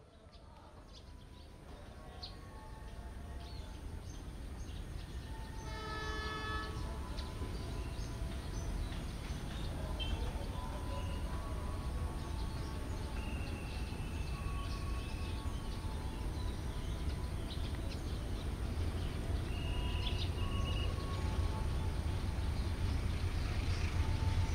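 Diesel-hauled passenger train approaching, its engine and wheel rumble growing steadily louder. A horn sounds briefly about six seconds in, and short high tones come and go through the rest of the approach.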